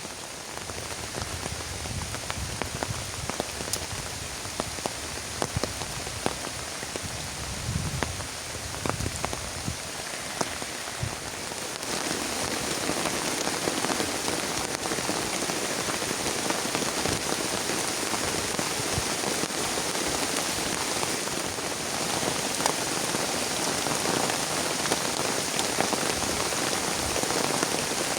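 Heavy rain falling, with many separate drops ticking. About twelve seconds in, it grows louder and denser.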